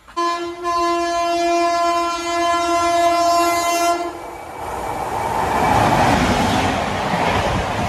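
Indian Railways WAP-7 electric locomotive sounding its horn as it approaches at speed, a brief toot running into a steady blast of about three and a half seconds. Then the rising rush and rumble of the Shatabdi Express train closing in on the platform, loudest near the end.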